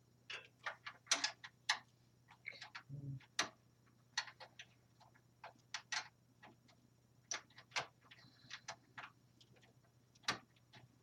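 Irregular clicks and taps of small hardware being handled and fitted inside a desktop computer case, with a few sharper knocks about a second in and near the end.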